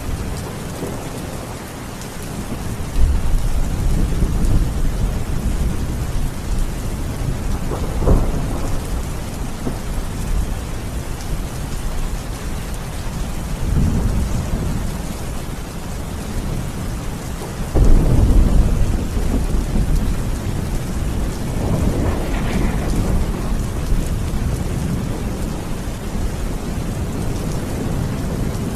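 Steady rain falling, with several rolls of thunder that start suddenly and die away slowly; the loudest comes a little past halfway.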